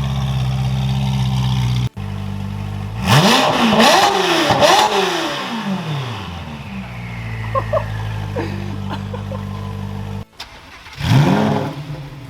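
Ferrari F8's twin-turbo V8 through a full Boden exhaust, idling and then blipped: about three quick revs rising and falling a few seconds in, back to a steady idle, and one more sharp rev near the end.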